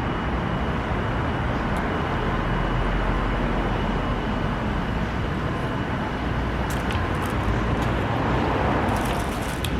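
Steady hum of city traffic, with a few light crinkling clicks near the end.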